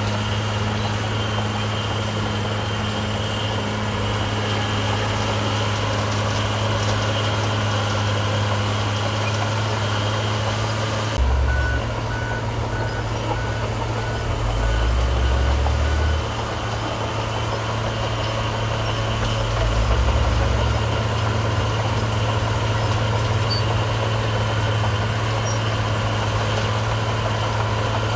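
Heavy diesel engines of construction machinery (dump trucks and a bulldozer) running steadily, with low swells as they work. A reversing alarm beeps about twice a second for several seconds, starting shortly after an abrupt change in the sound about a third of the way in.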